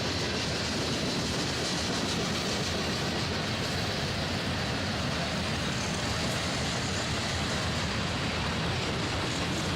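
Mixed freight train rolling past, a steady even rush of wheels on rail.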